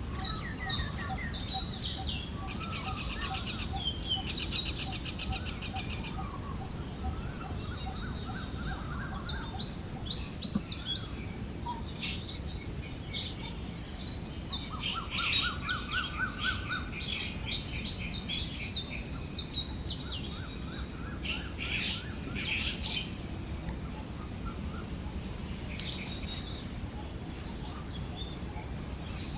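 Forest birds chirping and trilling, several calls overlapping, over a steady high insect drone and a soft low rush of breeze.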